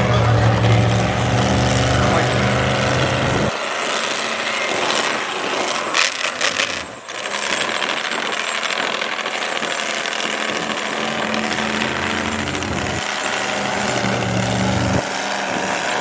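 Monster truck engine running loud: a steady deep drone for the first few seconds, then a harsh dense noise, with a short cluster of sharp knocks about six seconds in and the deep drone returning near the end.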